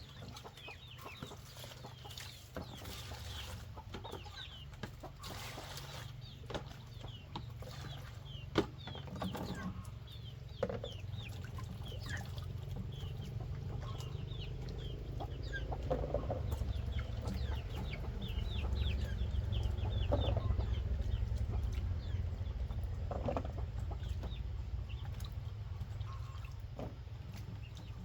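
Chickens calling: a steady stream of short, high, falling peeps with a few lower clucks, over a steady low rumble.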